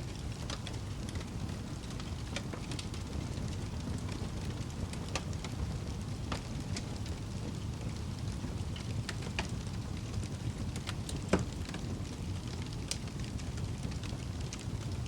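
Wood fire burning in a fireplace: a steady low rumble of flames with scattered crackles and pops, one louder pop about three-quarters of the way through.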